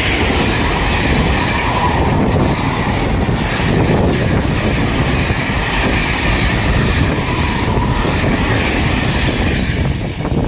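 A train passing at speed, its wheels clattering steadily over the rails; the sound eases slightly near the end.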